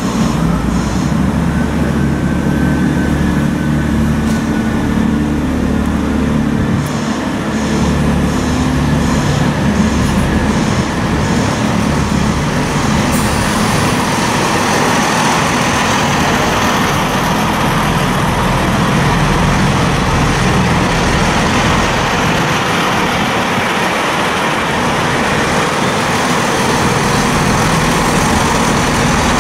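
Diesel train engines running at a station platform, a steady low throb with a broader noise building up from about halfway.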